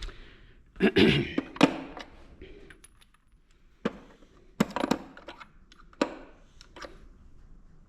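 Scattered metallic clinks and clanks of hand tools being handled, a quick cluster about a second in and single knocks later, like sockets knocking together while one is picked out.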